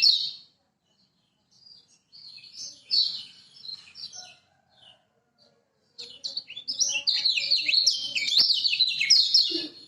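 Kecial kuning (yellow white-eye) singing: rapid, high chattering warbles, a few softer phrases after a short pause, then a loud unbroken run of song from about six seconds in.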